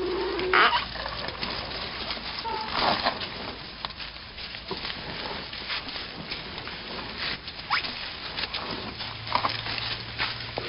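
Dry bamboo and brush crackling and snapping irregularly as elephants trample through the thicket. There is a short, higher animal call about half a second in.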